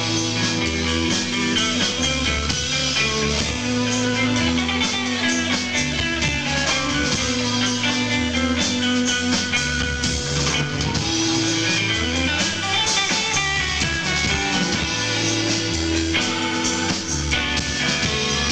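Rock band playing an instrumental passage live: electric guitars over bass and a drum kit.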